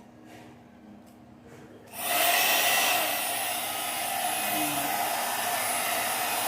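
One-step hair dryer and styler switched on about two seconds in, then blowing with a steady rush of air.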